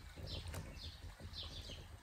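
A bird calling over and over, short falling chirps about twice a second, over a faint low rumble.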